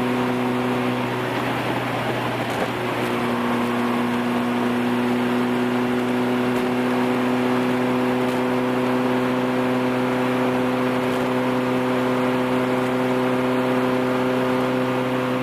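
Turbocharged Honda Civic's four-cylinder engine running at steady revs while driving: an even, constant-pitch drone, with a brief change in the tone about two seconds in.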